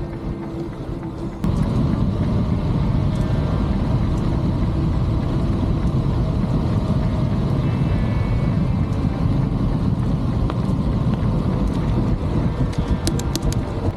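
Steady low rumbling noise of riding a bicycle on a trail, wind buffeting the camera's microphone along with tyre noise, starting abruptly about a second and a half in.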